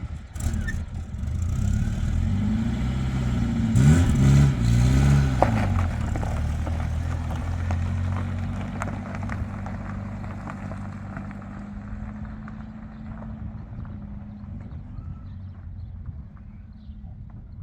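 A motor vehicle's engine revs up and down a couple of times about four seconds in, then runs steadily and gradually fades away as the vehicle moves off.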